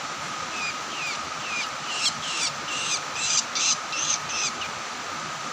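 A ciblek sawah, a small songbird, calling a run of sharp falling chirps that come faster and louder over about four seconds, then stop. A steady high hum runs underneath.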